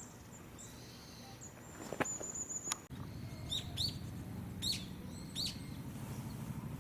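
Small birds calling: thin, high whistled notes with a short trill, then a few sharp, quick chirps dropping in pitch. A steady low rumble sets in about three seconds in.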